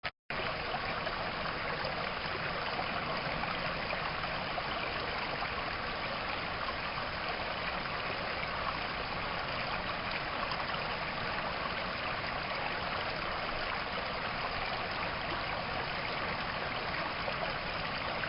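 Steady, even rush of flowing water, a stream.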